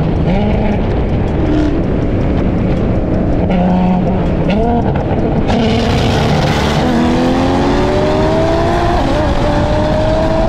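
A tuned Nissan GT-R and a Dodge Challenger Hellcat running side by side at highway speed during a roll race. The engine note wavers at first, then climbs steadily from about seven seconds in as the cars accelerate hard, with a rush of noise under it.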